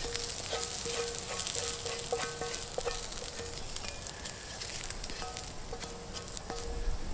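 Onions and bacon sizzling in a frying pan over a campfire, a steady hiss. A metal utensil clinks and taps against metal cookware a dozen or so times, each clink ringing briefly, as the food is scooped out.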